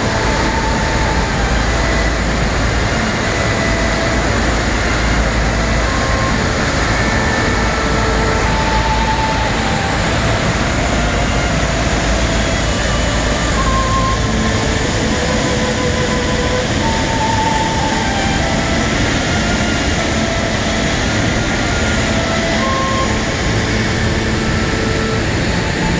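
Waterfall: a steady, loud rush of falling water that holds unbroken throughout.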